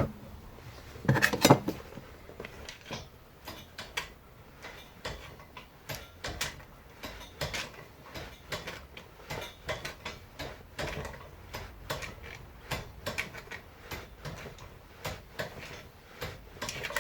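Hand-lever shrinker stretcher being worked over and over, its jaws and lever clanking and clicking about once or twice a second as it bends a strip of sheet metal into a curve. The louder clanks come about a second in.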